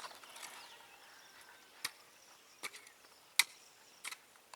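Four short, sharp clicks or taps, about three-quarters of a second apart, the third the loudest, over a faint background.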